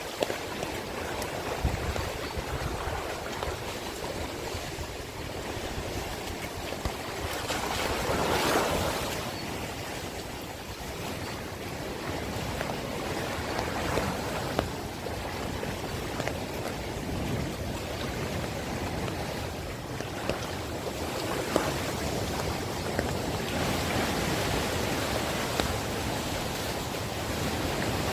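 Heavy rain falling steadily as an even hiss. It swells briefly about eight seconds in, and a few sharp clicks sound through it.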